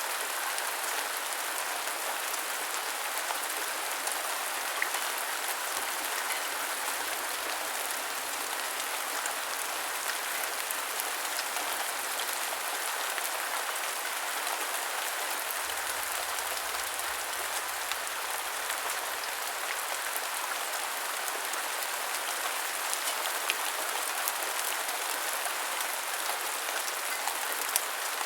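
Steady heavy rain falling, an even hiss with scattered faint drop ticks.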